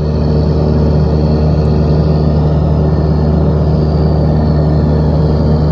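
Diesel engine of heavy construction equipment running steadily and loudly, with a low, even engine note.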